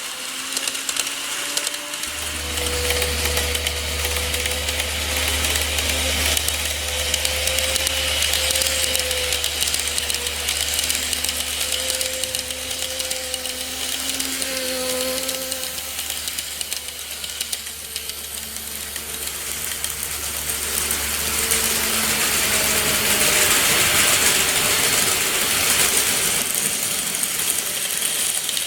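KATO model electric train running on its track, with a steady motor whine and the rattle of wheels on the rails. A low hum comes in about two seconds in and stops about three-quarters of the way through, and the sound grows noisier near the end.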